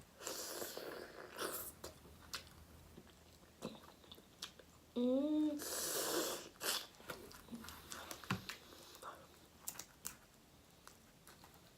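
A person chewing and biting seafood close to the microphone: wet mouth noises with short clicks and smacks. About five seconds in there is a brief hummed sound.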